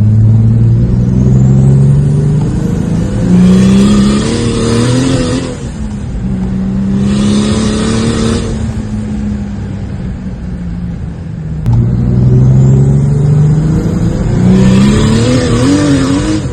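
Turbocharged straight-six of a Ford BA Falcon accelerating hard in full-throttle pulls, its note climbing, dropping at the gear changes and climbing again, with a rushing hiss over the top around the changes. The sound breaks off about two-thirds through and a second pull begins.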